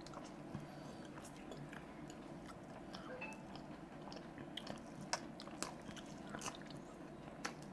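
Close-miked chewing of a soft steamed chicken momo: faint, wet mouth sounds with scattered small clicks.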